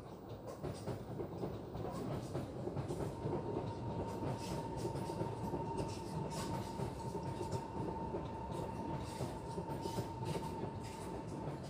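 SMRT North–South Line MRT train passing on the track below: a steady rumble of wheels on rail with scattered clicks, swelling over the first couple of seconds, and a steady whine that sets in about two seconds in.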